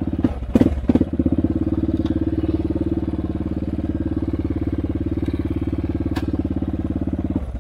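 ATV engine running at a steady pace, its firing pulses even. A few sharp knocks and rattles come within the first second.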